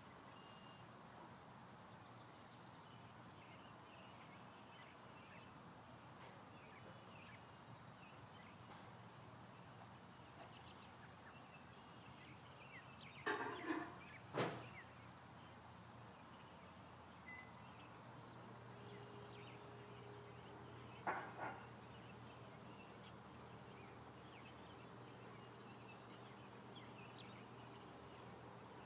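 Quiet outdoor ambience with faint, scattered bird chirps, broken by a few brief rustles or knocks: a short cluster about halfway through and another a few seconds later.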